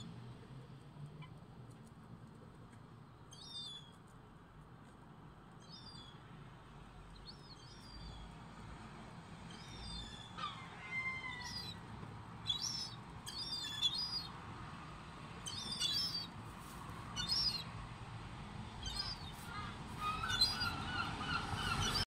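Birds calling outside: short, sharp, high chirps, only a few at first, then coming in quick succession from about halfway through.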